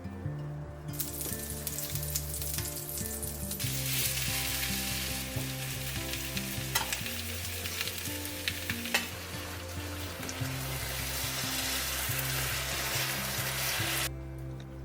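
Bomdong (spring cabbage) pancakes frying in oil in a pan: a sizzle that starts about a second in, grows louder a few seconds later and cuts off suddenly near the end, with a couple of sharp clicks along the way.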